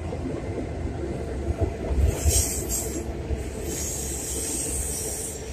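Freight cars of a Norfolk Southern intermodal train rolling across a steel trestle with a steady low rumble. A high hissing squeal from the wheels comes in briefly about two seconds in, then again from about three and a half seconds until near the end.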